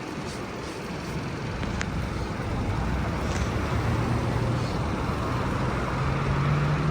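Street traffic noise, with a motor vehicle's engine rising in pitch over the second half as it speeds up.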